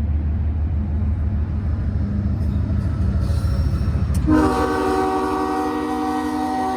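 Norfolk Southern diesel freight locomotive rumbling close by. About four seconds in, its multi-chime air horn sounds a held chord of several notes.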